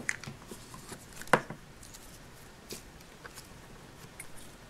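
Soft handling noises of Play-Doh being kneaded in the hands and a small plastic toy ice cream cone being picked up, with scattered faint clicks and rustles and one sharper click about a second in.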